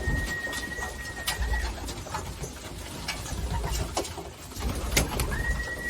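Racing pigeons cooing, with scattered sharp clicks and taps. A steady high tone holds for about a second and a half at the start and comes in again just before the end.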